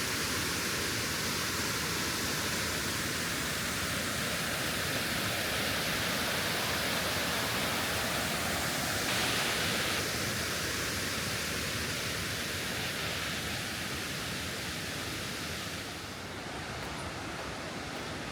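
Waterfall rushing: a steady, even wash of falling water. It briefly swells about halfway through, then drops a little and turns duller near the end.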